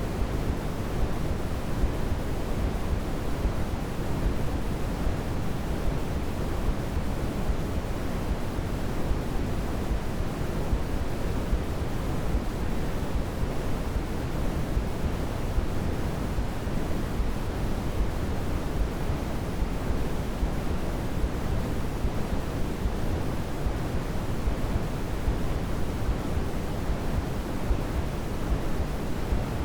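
Steady white noise for baby sleep, an even hiss weighted toward the low end, so it sounds deep and soft rather than bright.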